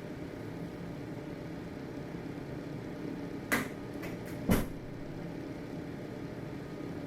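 Household ventilation fan running with a steady hum. About halfway through there is a short cluster of sharp knocks, the last one loudest.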